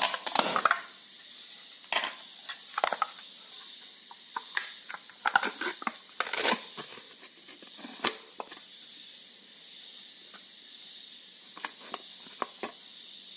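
Clicks, taps and crinkling of a jam jar being opened and handled, in scattered bursts, busiest in the first eight seconds or so, with a few light ticks near the end.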